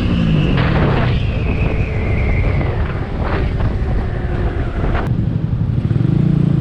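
Single-cylinder CG150 engine of a Skygo Earl 150 motorcycle, fitted with a 28mm carburetor, dropping in pitch as the bike slows on a light throttle, with wind on the microphone. About six seconds in the engine note comes back steady as the bike pulls on again.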